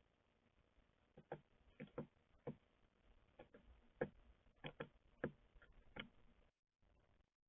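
Birds pecking and landing on a bird feeder: about a dozen faint, irregular sharp taps and clicks over several seconds, then the sound cuts out.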